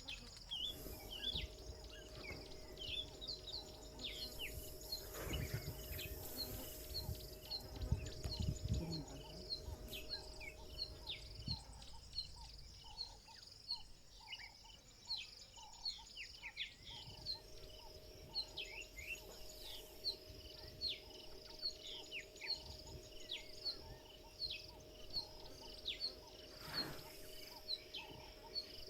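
African bush ambience: birds calling with many short falling whistles over evenly repeated high chirps, insects trilling, and a faint steady hum. A few low rustling thumps come around six and eight seconds in and again near the end.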